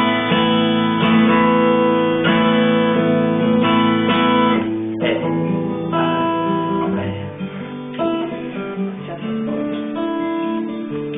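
Acoustic guitar strumming chords in a steady rhythm; about five seconds in the playing thins out to softer, sparser strums and picked notes.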